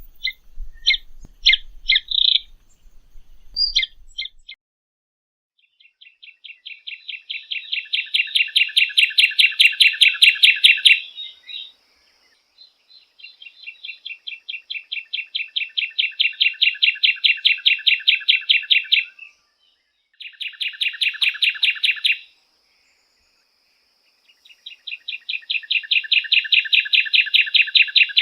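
A bird singing: a few short chirps, then long trills of rapid, evenly spaced notes that swell in loudness, each lasting several seconds, repeated four times.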